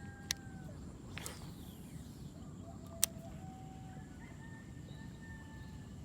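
Two long, drawn-out distant animal calls, each held on one pitch, over a low steady rumble. Two sharp clicks come about a third of a second and three seconds in.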